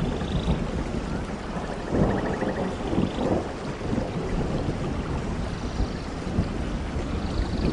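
Thunder rumbling over steady rain, with louder rolls about two and three seconds in.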